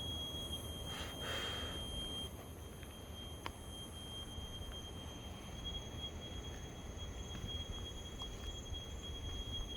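A steady, ear-piercing high-pitched tone of unknown origin, one thin whine with fainter higher tones above it, weakening a little after about two seconds and growing stronger again near six seconds. A brief rushing sound about a second in and a single click a little later.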